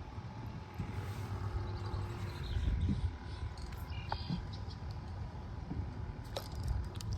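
Wind rumbling on the microphone, with a couple of short bird chirps about four seconds in and a few light clicks near the end.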